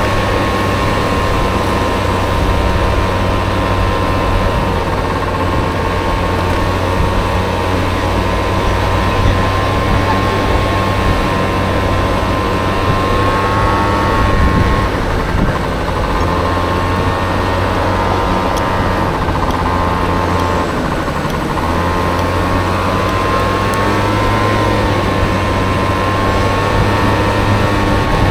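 Honda Motocompo scooter with a swapped-in Honda Dio engine running under way, a steady engine drone with a whine over it. The pitch sags and climbs back a few times, about halfway through and again near the end, as the throttle is eased and opened.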